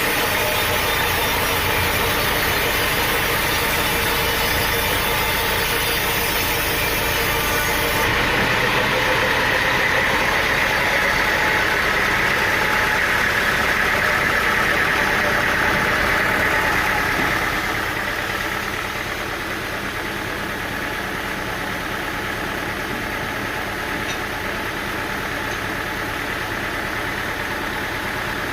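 Engine-driven sawmill machinery running steadily. The sound changes abruptly about eight seconds in, grows brighter for a while, then drops in loudness at around seventeen seconds.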